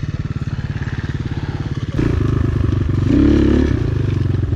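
Enduro motorcycle engine idling with a fast, even beat, louder from about two seconds in, with a short rev-up and drop around three seconds in.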